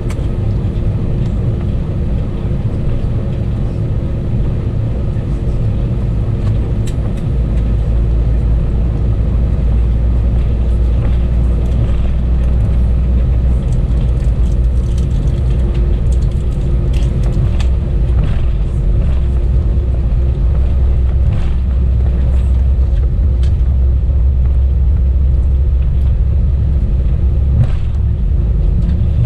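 Airbus A320 cabin noise: the steady drone of the running engines over a low rumble, with a couple of constant hum tones. The rumble deepens and grows a little louder about seven seconds in.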